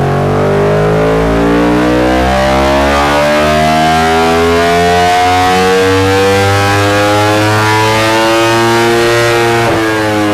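Yamaha R1 inline-four engine making a dyno power run: the revs climb slowly and steadily under load for nearly ten seconds, then fall away suddenly near the end as the throttle is closed.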